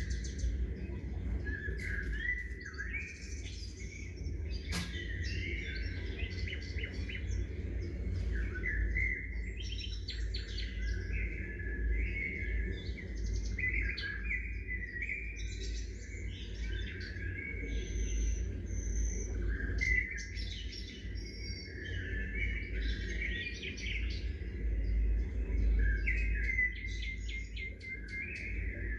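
Several small songbirds chirping and trilling without pause, with overlapping short calls, over a steady low rumble.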